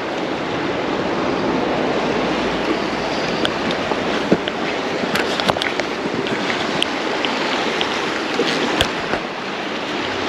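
Steady rushing noise of creek water and wind, with scattered light clicks and taps in the middle of the stretch.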